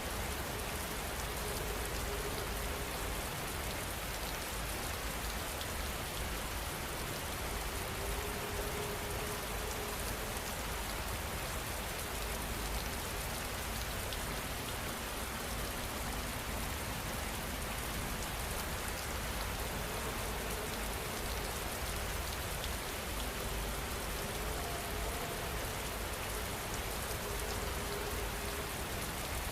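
Steady rainfall, an even, unbroken hiss of many drops hitting a surface.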